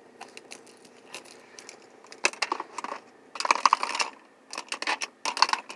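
Rapid clicks, rattles and rustles of small hard objects being handled, in three short bursts.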